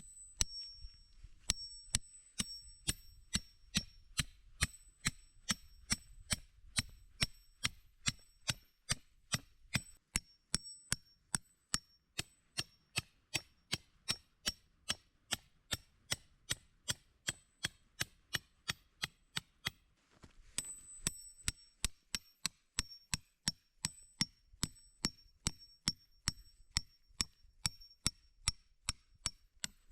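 Steady striking at about two blows a second, each blow with a bright, high metallic ring, pausing briefly about twenty seconds in before carrying on.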